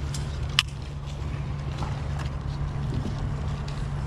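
Steady wind rumble on the microphone, with a sharp click about half a second in and a few fainter clicks and taps.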